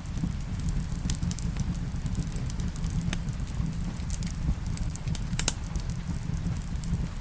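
Wood fire in a fireplace crackling, with many scattered sharp pops, two of them louder about 3 and 5.5 seconds in. Under it runs a steady low rumble with a soft hiss of rain.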